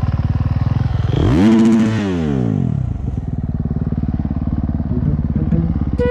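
Motocross bike engines: a steady low engine drone throughout, and about a second in a bike revs up loudly and then its pitch slides down over the next second and a half as it goes past.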